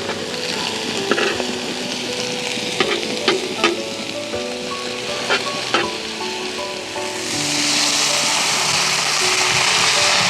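Food frying in hot oil while being stirred, with a few sharp clinks of the utensil against the pot. The sizzle grows louder about seven seconds in.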